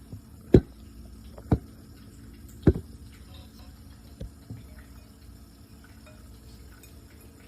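Conure bathing in a shallow water dish, splashing: four short, sharp splashes spread over several seconds, with quiet between them.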